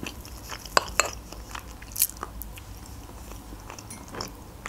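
Close-miked chewing of a forkful of chocolate cake, with a few sharp clicks in the first two seconds.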